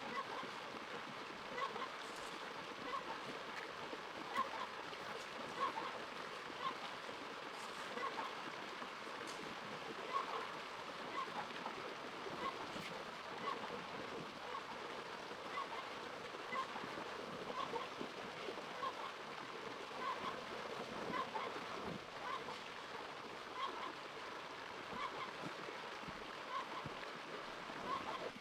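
Steady rushing noise like running water, with short, similar animal calls repeating about once or twice a second.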